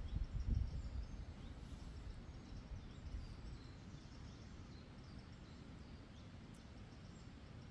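Wind buffeting the microphone as a low rumble, strongest in about the first second and then easing to a steadier low hiss, with faint, scattered bird chirps above it.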